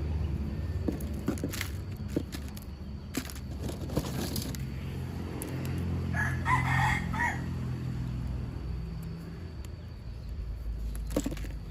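A single drawn-out call lasting about a second and a half, about six seconds in, over a low steady hum and scattered light clicks.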